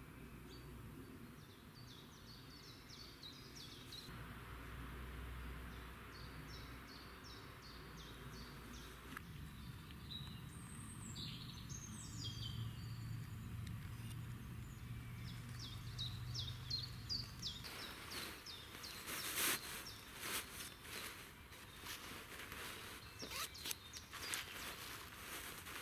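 Songbirds singing runs of short, high chirping notes over quiet outdoor background noise. From a little past the middle, a spell of crackling and rustling clicks joins in.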